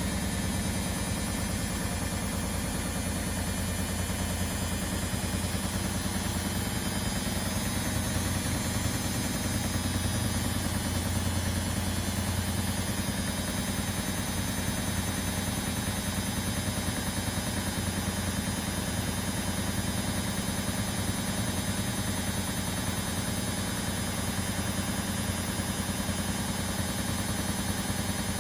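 Household laundry machines running steadily: a low hum with a fast, even vibration.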